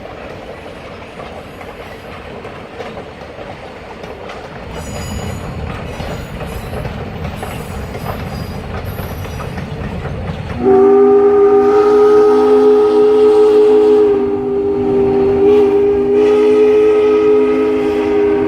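Passenger train rolling by with a rising rumble and wheel clatter. About ten seconds in, the EMD diesel locomotive's multi-note air horn sounds a long, loud chord, dips briefly, then holds again until near the end.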